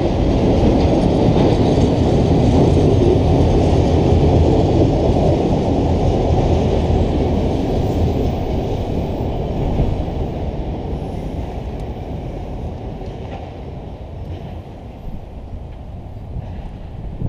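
Freight train's autorack cars rolling past on the rails, a steady rumble of wheels on track that fades away in the second half as the last car passes and the train moves off.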